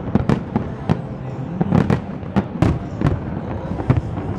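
Aerial fireworks bursting: about ten sharp bangs in quick, irregular succession.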